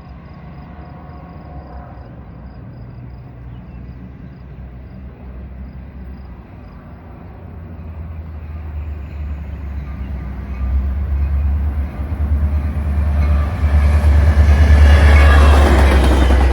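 A train approaching, its low rumble building through the second half and growing loudest near the end as the rail and wheel noise swells.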